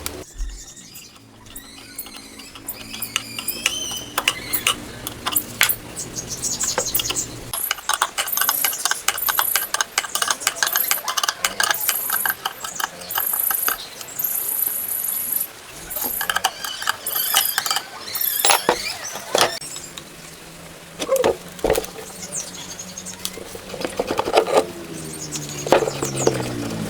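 Mechanic's hand tools working on a tractor engine: a ratchet clicking and metal tools and parts clinking, with short high squeaks through the middle.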